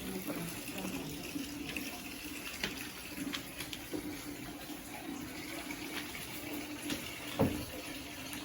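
Water running steadily, with a few light clicks.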